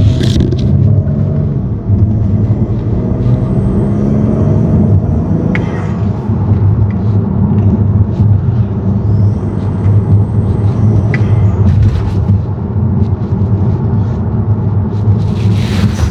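BMW E60 535xi's twin-turbo inline-six under way, heard from inside the cabin with the windows up: a steady low engine drone over road rumble. A faint high turbo whistle rises in twice, for a couple of seconds each.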